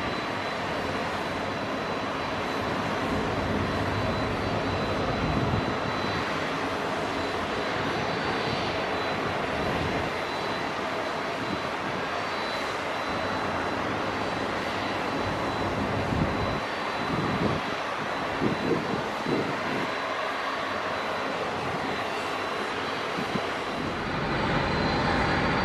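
Jet aircraft engines running, a steady even noise with a faint steady high whine above it.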